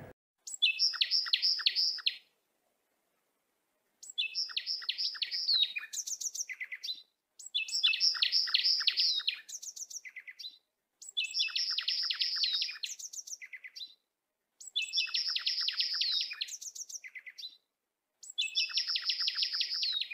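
A songbird singing: six repeated phrases, each a quick run of chirps followed by a few higher notes, with complete silence between phrases.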